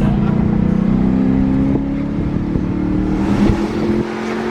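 Dodge Charger engine pulling under acceleration, its note rising slowly for about three seconds, then easing off.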